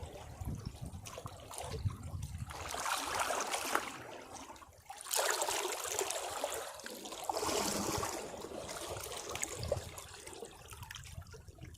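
Sea waves breaking against rocks: several surges of rushing, splashing water, the loudest coming in suddenly about five seconds in, then washing back and fading near the end.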